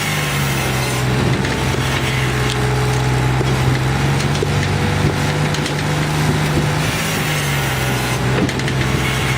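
Shinyoung 1620SS firewood processor running steadily under work, its engine-driven hydraulics humming, with scattered knocks and cracks of logs being cut and split. The machine's pitch rises at the start and dips slightly lower about three-quarters of the way through as the load changes.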